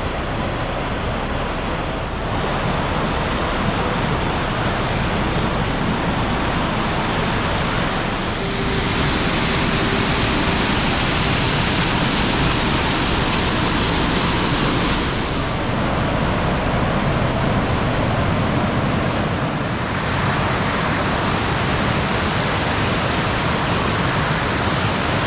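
Waterfall rushing, a steady full roar of falling water that shifts abruptly in tone and loudness several times, as between takes at different distances.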